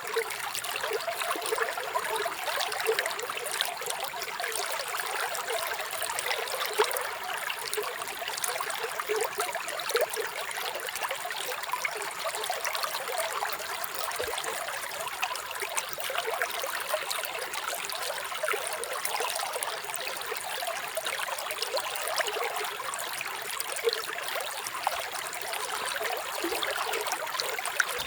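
Running water in a small stream, a steady trickling and babbling with no low rumble.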